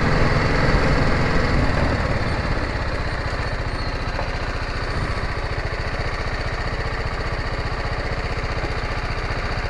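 Motorcycle engine idling with an even, rapid pulse, a little louder for the first couple of seconds before settling to a steady level.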